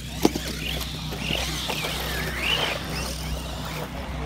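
Radio-controlled race cars running on a dirt track, their motors whining up and down in pitch with the throttle, with one sharp knock just after the start.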